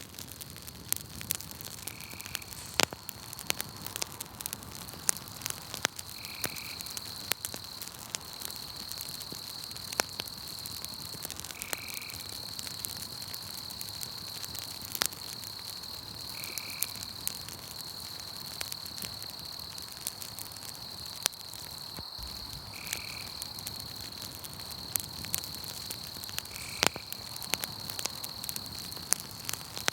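Campfire crackling, with frequent sharp pops and snaps, over a steady high-pitched insect trill. A short, lower call repeats about every five seconds.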